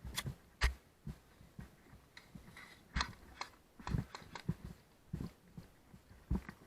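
Irregular knocks and clicks close to the microphone, a few each second: a player's footsteps and the rattle of carried gear.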